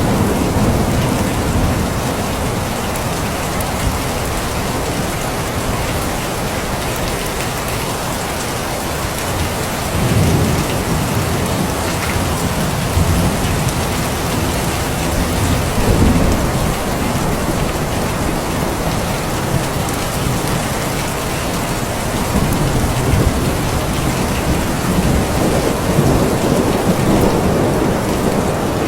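Steady heavy rain falling, with low rumbles of thunder swelling and fading now and then: about ten seconds in, again around sixteen seconds, and near the end.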